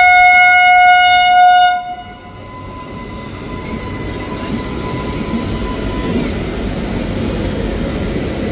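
Locomotive horn sounding one long blast of about two seconds, followed by the rumble of a train running on the rails, slowly growing louder.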